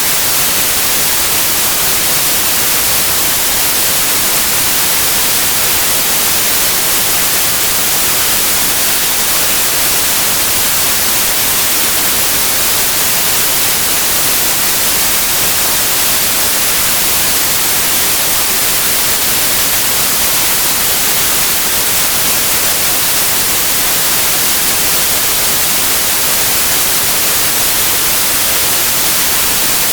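Steady, loud white noise, an even hiss without melody or rhythm.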